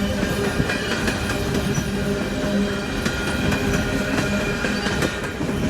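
Loaded coal train rolling past: a steady rumble of freight cars on steel rails, with faint wheel clicks over rail joints.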